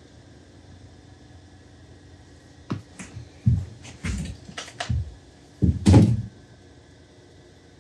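A run of knocks and thuds from parts being handled and set down on a workbench: about half a dozen short knocks, ending in the loudest, a heavy double thud.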